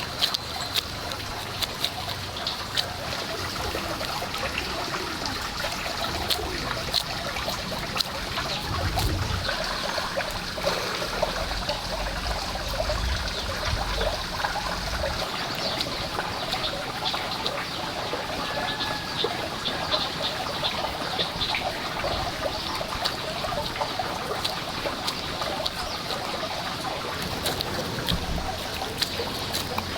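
Water trickling steadily, with many small clicks and pops throughout.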